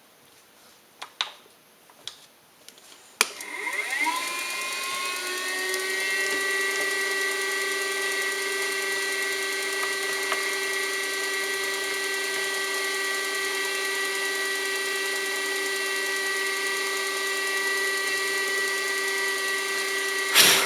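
A few handling clicks, then a switch click and a milling machine's spindle motor spins up, its whine rising in pitch for about three seconds before settling into a steady run with several tones. A sharp knock comes near the end.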